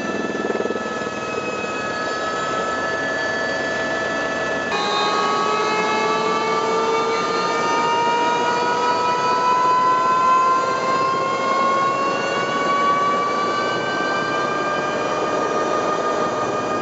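Helicopter turbine engine whine: several steady high tones over a rushing noise. The pitch jumps abruptly about five seconds in, then rises slowly.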